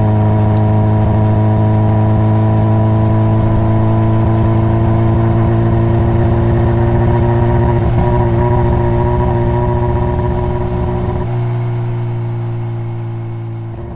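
A Honda CBR600RR's inline-four engine, heard through its stock exhaust, running at a steady, unchanging pitch. About 11 seconds in the deep low rumble drops away, and the sound then fades gradually toward the end.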